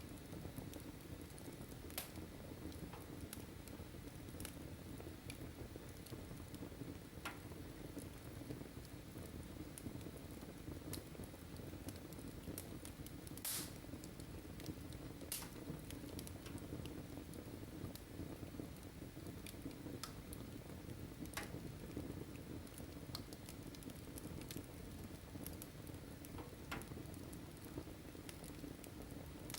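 Wood fire burning: a faint steady low rustle with scattered sharp crackles and pops every few seconds.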